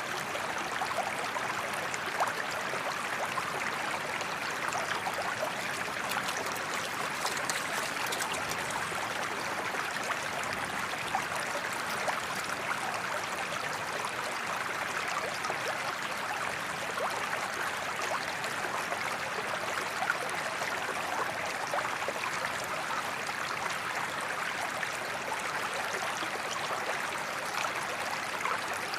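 Waterfall water rushing and splashing in an even, unbroken hiss.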